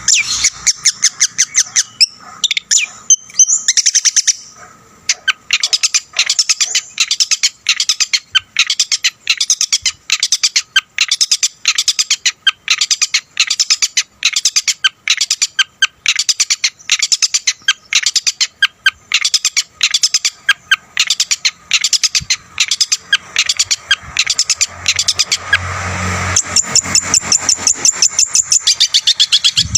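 Long-tailed shrike (cendet) singing a long run of short, sharp chirping notes, about three a second, with a short pause about four seconds in. It is the loud, rapid 'gacor' song full of mimicked phrases that keepers play to rouse other cendets.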